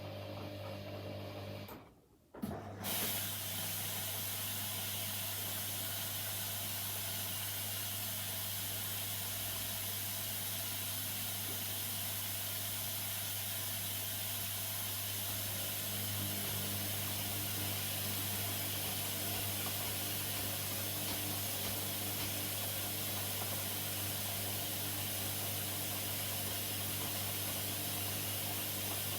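Washing machines running a wash cycle: a steady hiss over a low, even hum, with a brief dropout about two seconds in.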